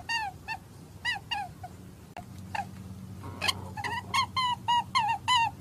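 Repeated short, high-pitched squeaky animal calls, most dropping in pitch, coming in quick runs with a lull in the middle. A steady low hum runs underneath.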